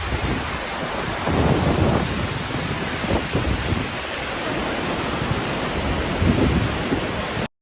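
Heavy rain pouring steadily, with low rumbles swelling up twice; the sound cuts off suddenly near the end.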